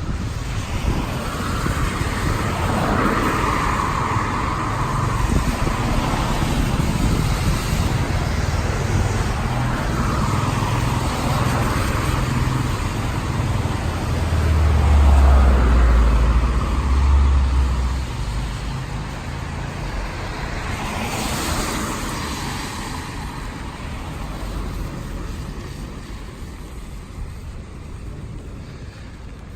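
Road traffic passing on a rain-wet street: cars go by one after another as a rise and fade of tyre noise and engine rumble. The deepest, loudest pass comes about halfway through, and another vehicle hisses past a few seconds later before the sound eases off.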